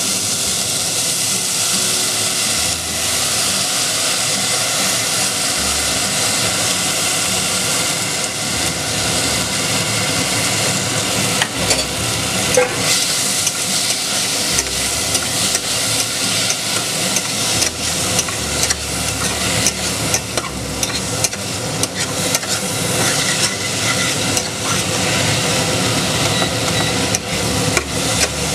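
Soaked chana dal sizzling in hot oil in a steel pressure cooker as it is tipped in and stirred with a metal spatula, with a steady frying hiss and many sharp clicks and scrapes of the spatula against the pot, more of them from about halfway on.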